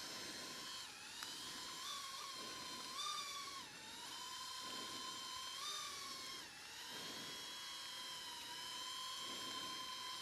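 Small quadcopter drone (DJI Neo 2) hovering, its propellers making a steady high whine that rises and dips slightly in pitch a few times as it adjusts.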